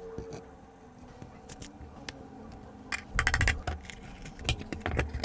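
Small hard parts clicking, rattling and scraping as they are handled, with a busier flurry of rattling about three seconds in.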